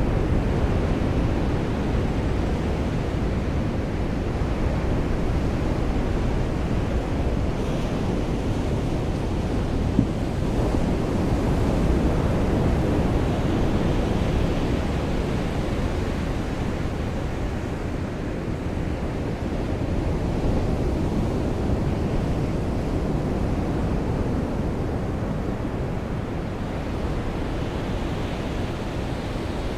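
Surf washing on a beach in the rain: a steady low rushing that swells and eases slowly.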